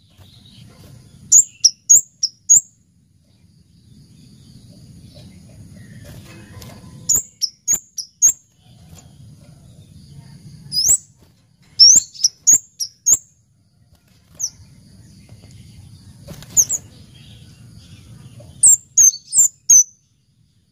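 Scarlet-headed flowerpecker calling in repeated bursts of three to five sharp, very high, quick chips, with pauses of a few seconds between bursts.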